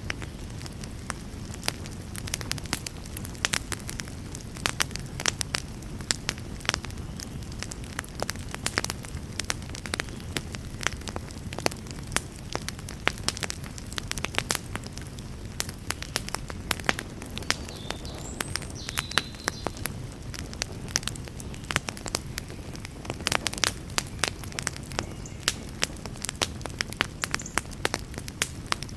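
Wood campfire crackling, with irregular sharp pops and snaps over a steady low rumble of the burning.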